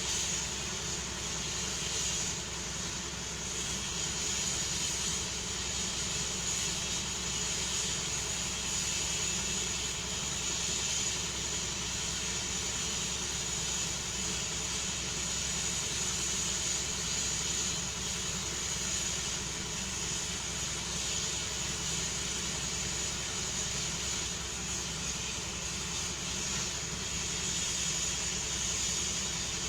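Helicopter running steadily, a constant high whine over a continuous engine and rotor noise.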